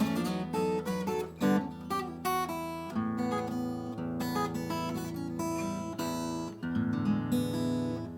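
Solid rosewood acoustic guitar being played: a few quickly picked notes, then full chords left to ring, with a fresh chord struck near the end.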